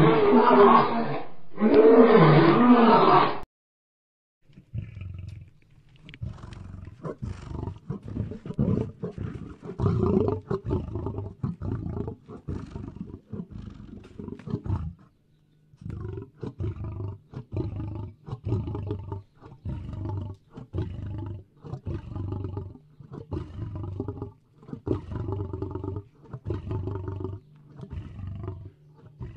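Lion vocalising: a loud roar with a wavering pitch that cuts off suddenly a few seconds in, then, after a brief pause, a long series of short grunts about one a second.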